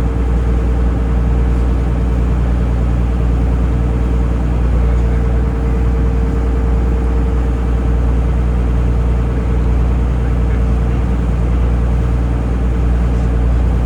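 Taxi boat's engine running steadily while under way: a constant low drone with a steady higher hum over it.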